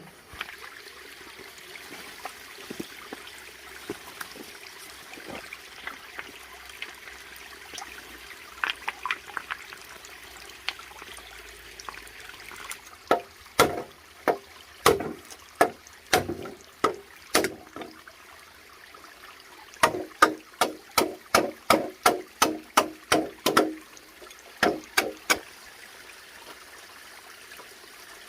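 Water trickling and running steadily. In the second half, a series of sharp knocks or chops come at irregular intervals, then in a quick run of about two a second; these knocks are the loudest sounds.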